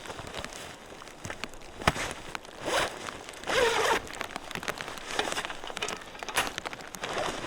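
Irregular rustling and crinkling handling noises, with a sharp click about two seconds in and a louder rasping burst halfway through.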